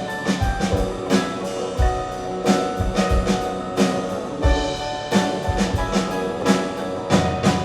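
Live band playing an instrumental break in a Cantonese pop song: drum kit with regular kick-drum and cymbal hits over held chords.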